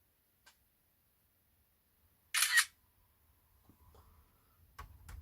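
Camera shutter sound as a photo is taken, one short burst about two and a half seconds in, followed by faint small handling clicks near the end.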